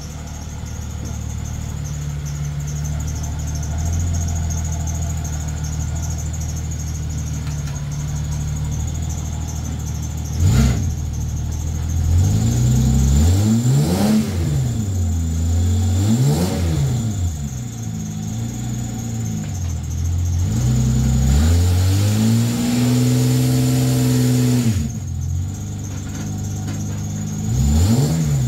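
VS Holden Commodore's 3.8-litre Ecotec V6 running at idle, then revving up and down several times, with a squealing drive belt. The owner puts the squeal down to grease and degreaser on the belt.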